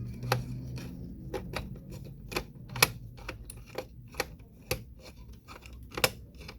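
Irregular sharp clicks and taps, about fifteen spread unevenly, from screws being taken out and small parts being handled inside an HP Z1 all-in-one computer.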